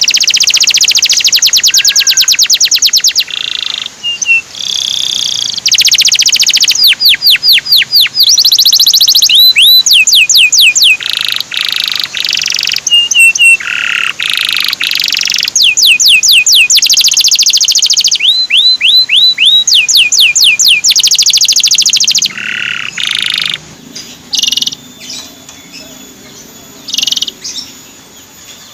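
Male canary singing: long, rapid trills alternating with runs of quick sweeping 'cuit' notes, with short breaks between phrases. In the last few seconds the song thins to a few short, scattered phrases.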